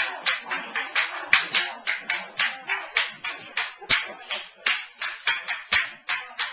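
Audience clapping in time, sharp distinct claps about three a second.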